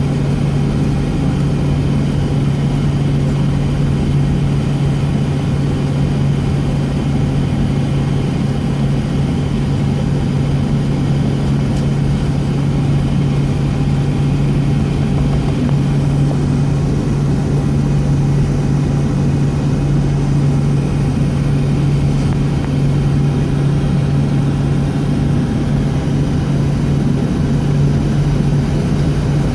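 Steady cabin drone of a Boeing 757-232 on the ground with its Pratt & Whitney PW2037 engines running: an even rushing noise with a strong low hum that holds one pitch throughout.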